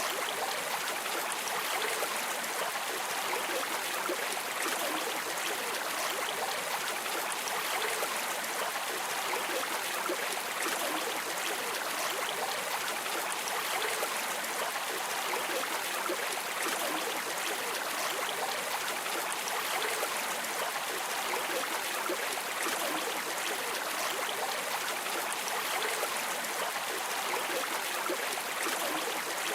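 River water flowing steadily, a constant rushing and babbling with no breaks.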